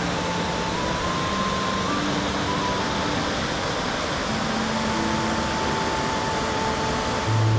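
Waterfall rushing in a steady, even roar, overlaid with soft, slow music of long held notes that shift every second or so; a low note comes in near the end.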